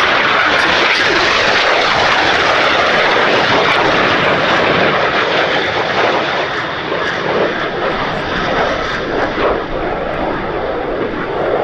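Jet noise from a pair of BAC Strikemaster jets, each with a single Rolls-Royce Viper turbojet, passing in a display. It is a loud, steady rush, strongest over the first half, then easing off a little and wavering.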